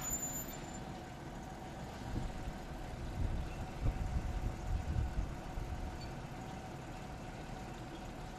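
Porsche engine and road noise heard from inside the cabin on track, a steady hum with a stretch of heavier, uneven low rumbling in the middle.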